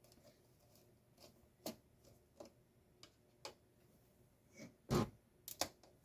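Irregular light clicks and taps from tools and small plastic and metal parts being handled while a garage door opener is taken apart, with a louder knock about five seconds in followed by two quick clicks.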